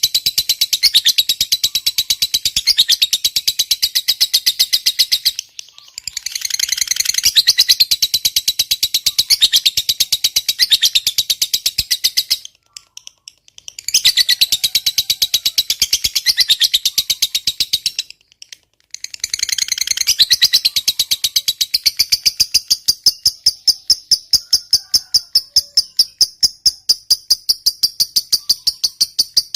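Lovebird giving a long 'ngekek' chatter: a fast, even train of high chirps, several a second, in long runs broken by short pauses about five, twelve and eighteen seconds in.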